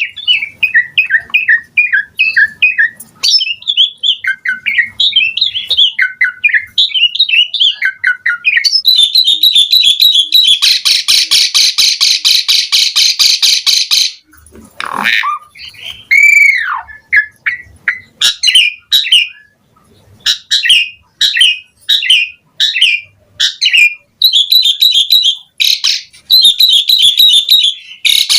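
Asian pied starling (jalak suren) singing a long, varied song. Quick chattering notes lead into a harsh, buzzy rattle held for several seconds around the middle, followed by a downward swoop and a rising-then-falling whistle, then short spaced phrases toward the end.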